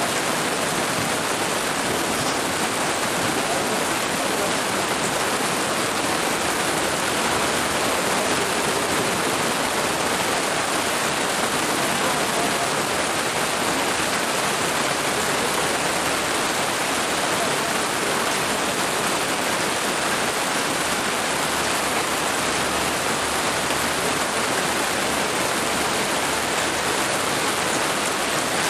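Heavy downpour falling steadily on an open pitch: a dense, even hiss of rain without breaks.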